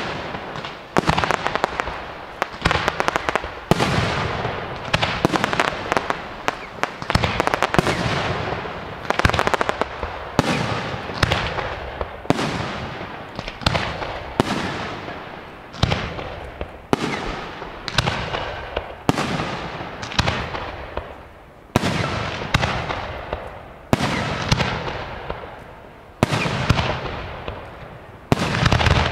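Aerial display shells of a large fireworks show bursting in steady succession, about one sharp bang a second, each trailing off in a long fading echo.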